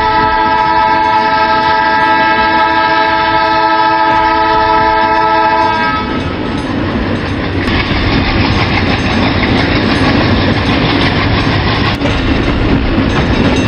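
A train horn sounding one long, steady chord, which cuts off about six seconds in. A passing train's rumble and wheel clatter on the rails follows and carries on.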